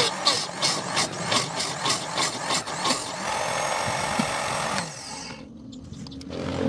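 Rhythmic rasping strokes of a hand tool working a piece of material, about three strokes a second, running into a steadier scraping that stops about five seconds in.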